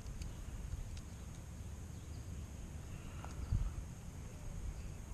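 Quiet outdoor pond-side ambience: a steady low rumble with a faint high steady hum above it, a few faint clicks, and a soft thump a little past halfway.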